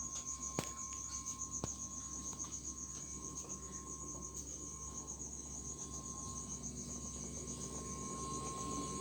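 Refrigerator giving a high-pitched whistle that pulses rapidly and evenly, over a steadier lower tone and a low hum.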